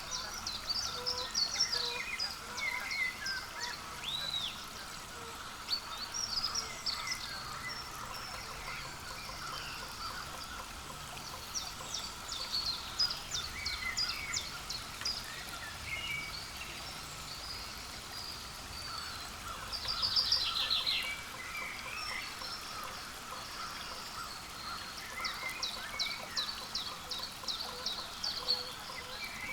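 Small wild birds chirping and calling outdoors, with short clusters of high chirps scattered throughout and a quick run of repeated notes about twenty seconds in, over a steady background hum.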